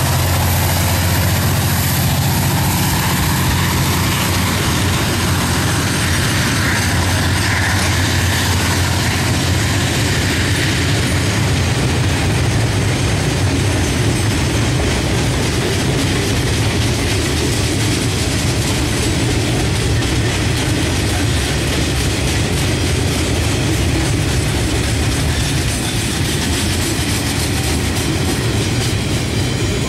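Two diesel-electric freight locomotives, KiwiRail classes DFB and DBR, working at full power as they pass, then a long freight train of log and container wagons rolling by, steel wheels clattering on the rails. A strong low engine hum runs under the rolling noise throughout.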